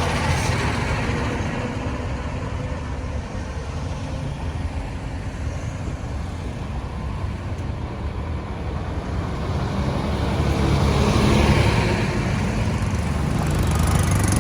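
Road traffic noise: motor vehicle engines running and tyres on the road, with a vehicle passing close and growing louder about ten to twelve seconds in.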